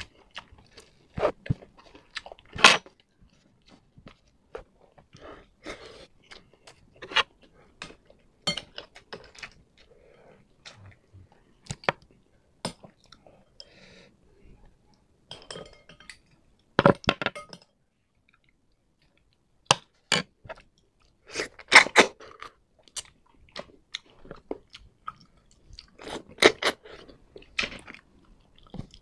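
Close-miked chewing and crunching of bamboo shoots cooked in coconut milk, in irregular bursts, heaviest in a few clusters toward the middle and near the end.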